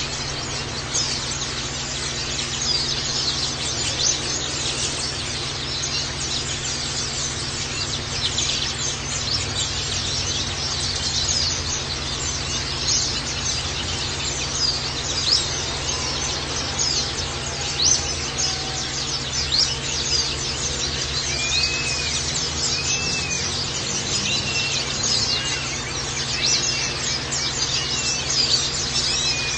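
White-eye (pleci) birds twittering in a fast, high-pitched, unbroken chatter. About two-thirds of the way in, a short arching whistle note begins repeating roughly once a second over the chatter.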